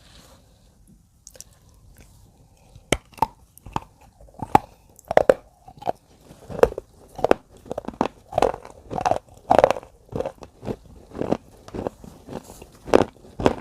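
Repeated crunching that starts about three seconds in and comes roughly one to two times a second, getting louder as it goes.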